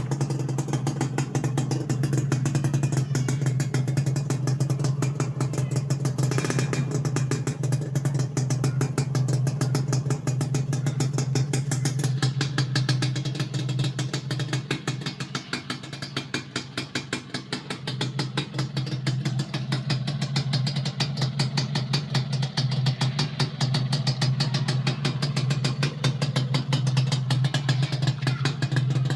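Suzuki Satria single-cylinder two-stroke motorcycle engine running at idle through a VND aftermarket exhaust, a steady rapid popping exhaust note that dips slightly in loudness partway through.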